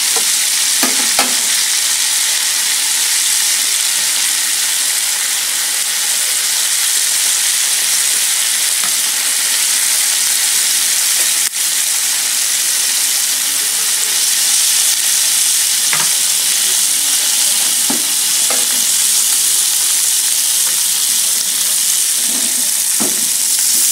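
Terasi (shrimp paste) frying in bubbling oil in a nonstick frying pan: a steady sizzle, with a few light clicks scattered through it and metal tongs stirring in the pan near the end.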